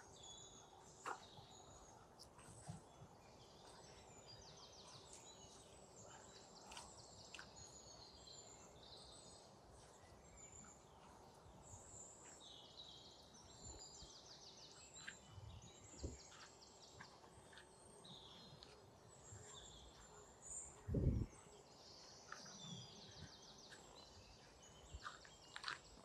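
Faint songbirds singing: high, rapid trills repeat throughout, with a few soft clicks. A short low thump about three-quarters of the way through is the loudest sound.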